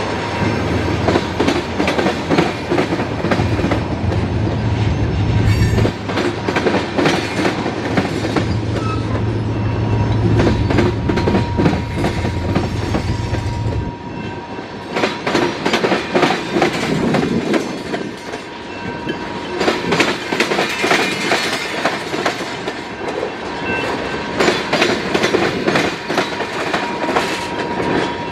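Freight train cars (covered hoppers and tank cars) rolling past at close range. A steady rumble with a continual clickety-clack of wheels over the rail joints; a deeper low rumble drops away about halfway through.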